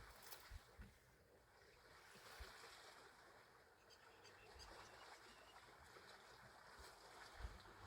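Near silence: a faint, even outdoor hiss, with a few soft low thumps, the strongest near the end.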